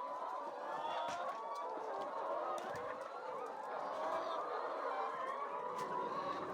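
A flock of chickens clucking steadily, many birds calling over one another at once.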